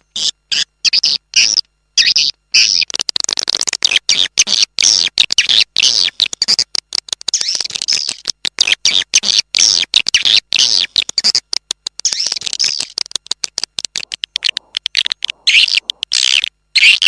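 Edible-nest swiftlets twittering in a dense, rapid chatter of short, high chirps, broken by many brief gaps. It is a swiftlet lure call of the kind played to draw swiftlets into a swiftlet house.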